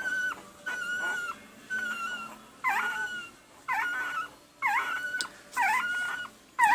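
Week-old Pembroke Welsh Corgi puppy whining, a string of short, high-pitched cries about one a second, each held level and then dropping at the end.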